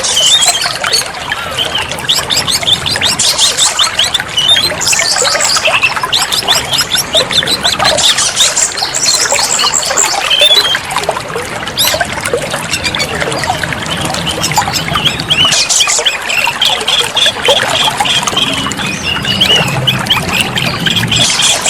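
Oriental magpie-robin (kacer) singing a fast, continuous run of varied chirps and whistles over steadily trickling water.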